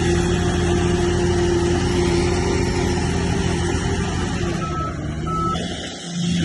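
Heavy earthmoving machine's diesel engine running steadily under load. It briefly drops away near the end, and two short high beeps sound a little before that.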